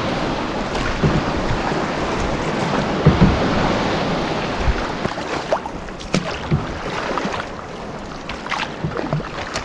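Rough lake water and wind around a canoe: a steady washing rush in choppy swells that eases about halfway through, with a few short splashes or knocks in the second half.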